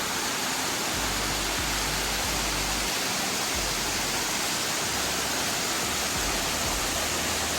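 A waterfall rushing: a steady, even wash of falling water.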